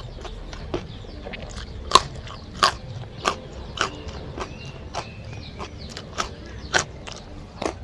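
A person chewing a mouthful of fried rice close to the microphone, with sharp crunchy clicks and smacks about every half second to second, the loudest about two seconds in.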